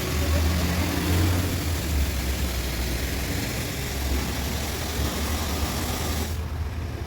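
Pressure washer running: a steady low motor hum under a broad spray hiss, and the hiss cuts off suddenly about six seconds in while the hum carries on.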